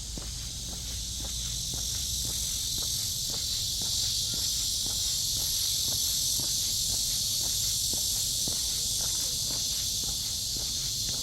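Cicadas in the trees, a steady high-pitched buzz that swells a little over the first few seconds, with footsteps on a park path at a walking pace of about two steps a second.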